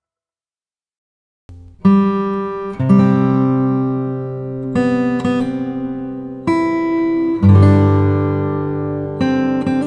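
Background music: after a second and a half of silence, an acoustic guitar piece begins, with plucked chords entering about once a second and ringing out.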